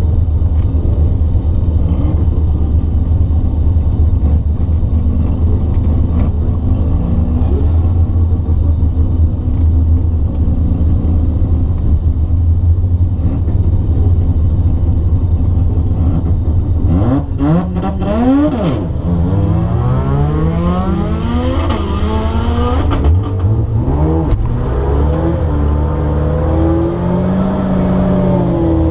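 Turbocharged 13B rotary engine of a 1972 Mazda RX2, heard from inside the cabin: a steady low idle for a little over half the time, then the throttle blipped again and again from about 17 seconds on, the revs rising and falling, as the car staged for a drag run.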